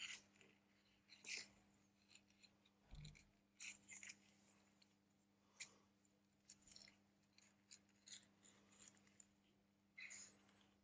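Faint, scattered clicks and scrapes of thin plastic prying tools working under the glued glass back cover of a Huawei P30 smartphone, lifting it from the frame.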